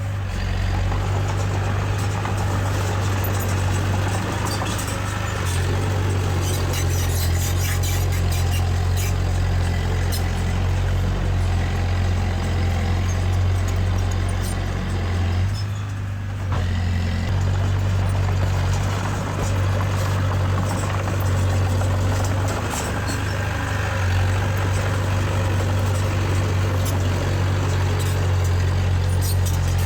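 Diesel engine of heavy earthmoving machinery running steadily under a strong low hum, with scattered sharp metallic clicks and squeaks over it. The level dips briefly about halfway through.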